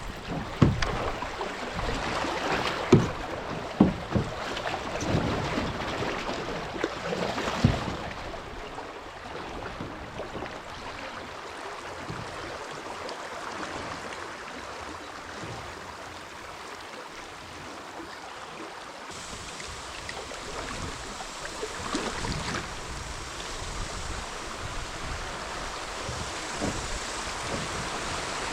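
Kayak paddling on a river: paddle strokes splashing, with several sharp knocks in the first eight seconds, then the steady rush of flowing river water.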